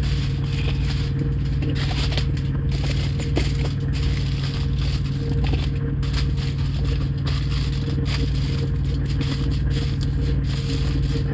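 Aluminum foil crinkling and rustling as it is handled and pressed over a window, with scattered small crackles. Underneath runs a steady low hum from the parked truck.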